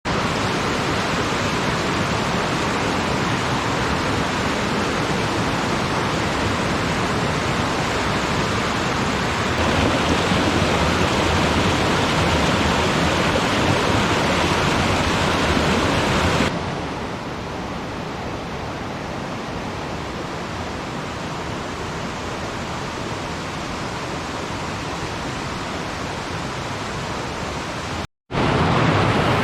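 Rushing water of a mountain stream, a steady noise with no distinct events. It gets louder about ten seconds in and quieter after about sixteen seconds, and cuts out briefly near the end.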